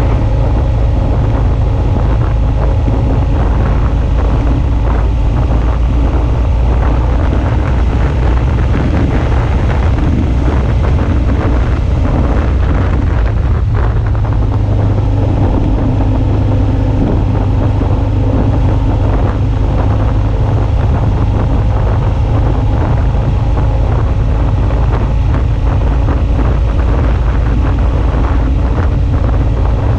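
Suzuki V-Strom 650's V-twin engine running steadily while the motorcycle is ridden, with wind rushing over the action camera's microphone.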